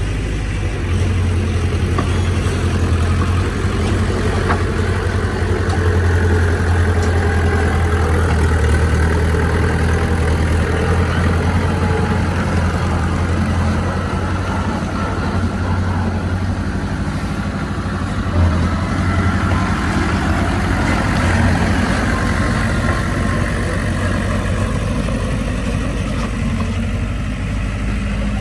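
Bulldozer's heavy diesel engine running under work, a deep steady drone that swells about a second in and eases off in the last few seconds. A single sharp knock comes about two-thirds of the way through.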